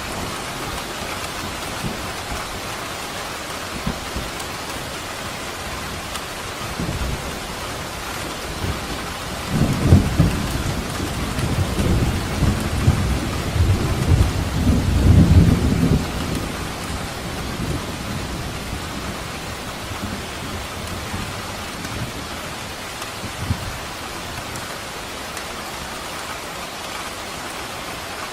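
Steady rain falling, with a deep rolling rumble of thunder that swells about ten seconds in and dies away about six seconds later.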